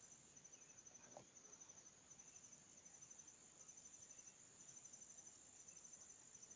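Faint, steady, high-pitched insect chirring with a fine pulsing rhythm, otherwise near silence.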